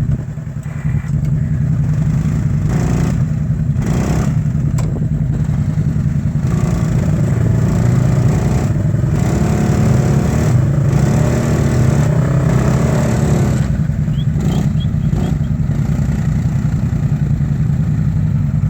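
Motorcycle engine running steadily, its pitch rising and falling with the throttle about halfway through, with short noisy gusts now and then.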